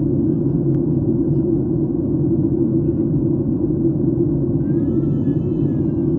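Airliner cabin noise in flight: a steady low rush of the engines and airflow. About five seconds in, a faint wavering higher tone rises briefly above it.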